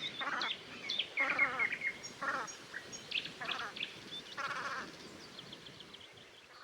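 Birds calling: about five short bursts of rapid, rattling calls, with higher chirps and whistles between them, fading near the end.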